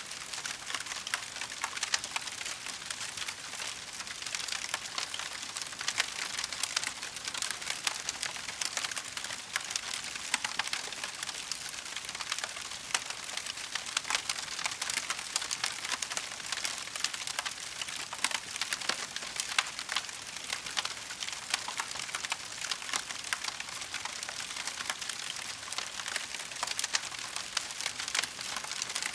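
Wood fire crackling steadily in a fireplace: a continuous hiss full of small, rapid pops and snaps, with a few louder cracks scattered through.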